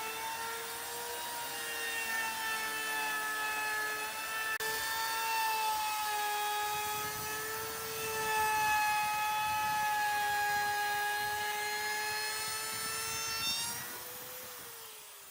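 A handheld electric power tool's motor runs with a steady high whine, its pitch sagging slightly now and then as it bites into the wood. Near the end the pitch rises briefly, then winds down and fades.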